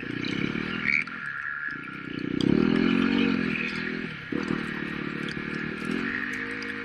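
Dirt bike engine running and revving, its pitch climbing and falling with the throttle, with a brief drop just after the middle as the throttle is chopped or a gear is changed.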